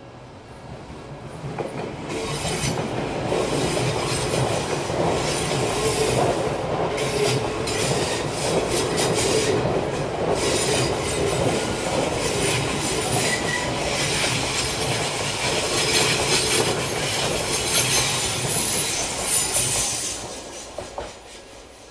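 Passenger train passing on the tracks, the rolling noise of its wheels on the rails swelling about two seconds in and fading away near the end.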